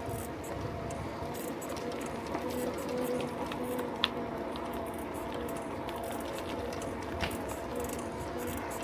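Bicycle in motion on a road: a steady whirring hum with a few held tones, and a sharp click about four seconds in and another about seven seconds in.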